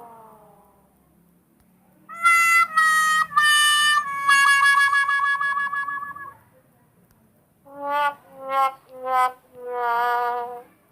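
Two "sad trombone" comedy stings on a brass instrument: three short notes stepping down and a long wobbling final note ("wah wah wah wahhh"), then after a short pause a lower version of the same four-note pattern.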